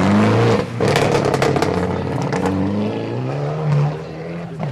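Rally car engine revving hard as the car slides through a snowy corner, its pitch falling and rising with the throttle and briefly cut about a second in. A run of sharp crackles follows for a second or two.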